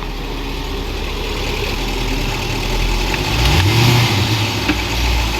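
Range Rover engine running in reverse gear, heard from beside a wheel; about three seconds in its note deepens and rises as the drivetrain takes up load, and a short knock follows about a second later. The underbody clunk is the common high-mileage Range Rover fault that the mechanic traces to a loose hard-plastic differential mount bushing shifting under engine torque.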